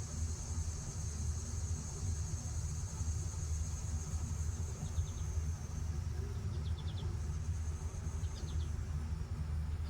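Outdoor nature ambience: a steady high-pitched insect trill, like crickets, over a continuous low rumble. A few short, rapid chirps sound about halfway through and again near the end, and the trill fades away near the end.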